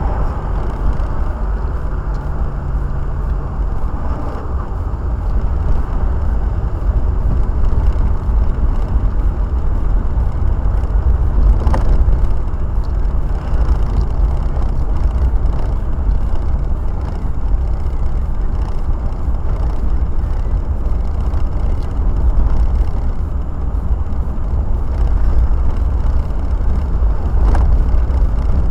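Car cabin noise while driving: a steady low rumble of road and engine, with faint scattered ticks and a brief click about twelve seconds in.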